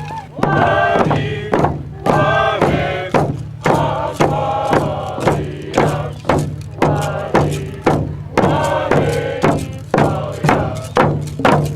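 A group of voices singing a chant in unison to a steady drum beat, about two strikes a second.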